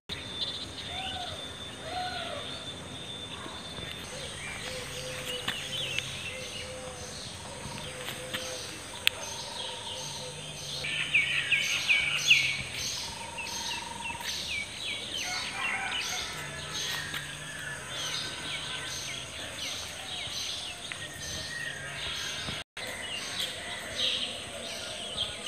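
Birds chirping over steady outdoor background noise, the calls coming thickest about halfway through.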